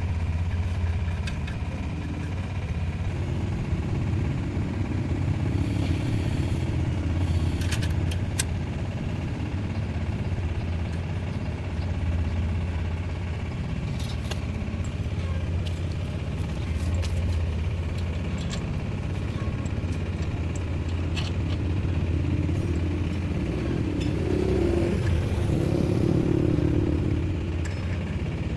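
An engine running steadily at a constant speed, with a few light metallic clinks.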